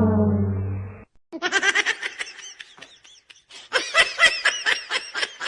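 A low, falling horn-like tone fades out about a second in. It is followed by rapid, high-pitched laughter: quick pulses, each sliding up and down in pitch, loudest about four seconds in.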